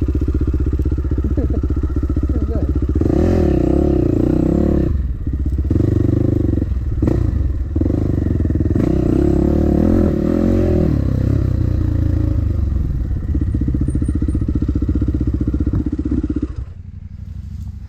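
Dirt bike engine running while riding a trail, the throttle opening and closing so the engine note rises and falls repeatedly, with clattering from the bike. Near the end the engine sound drops away suddenly.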